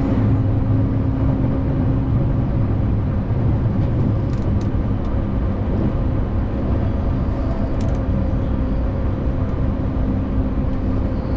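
Inside a moving electric commuter train: steady running rumble of wheels on rail with a constant low motor hum.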